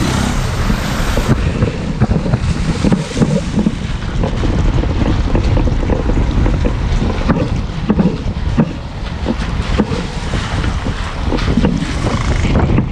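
2017 Toyota Avanza's rear suspension clunking repeatedly over rough road, under loud road and wind rumble. The knock is the sign of a dead rear shock absorber and a damaged rear suspension arm rubber bushing.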